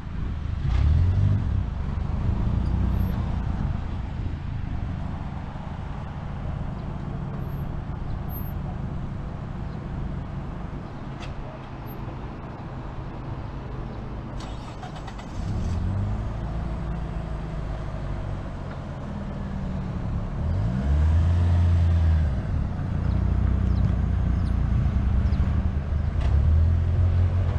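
Car engine of a manual-transmission hatchback running and revving as the driver works the clutch in a hill start. The engine note rises and falls about halfway through and again a few seconds later as the car pulls away.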